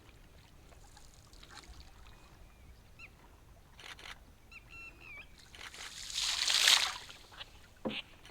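Waterfowl calling with a few short wavering calls, then a loud rushing burst of noise about a second and a half long around six seconds in, and a sharp knock near the end.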